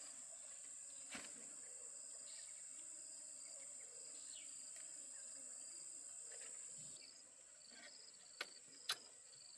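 Insects droning steadily at a high pitch, with short repeated chirps over it. The drone drops off somewhat about seven seconds in. A sharp click comes about a second in, and two louder sharp knocks come near the end.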